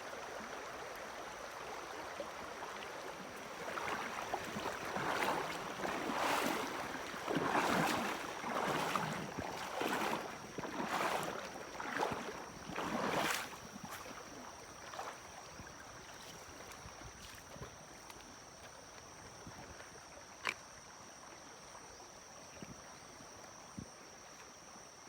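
Water splashing and swishing in a run of about ten strokes roughly a second apart, then settling to a quieter wash, over a steady high-pitched whine; a single sharp click comes near the end.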